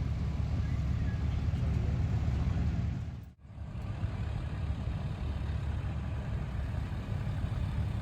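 Truck engine running at a steady idle, with a low rumble and no revving. It cuts out briefly about three seconds in, then resumes.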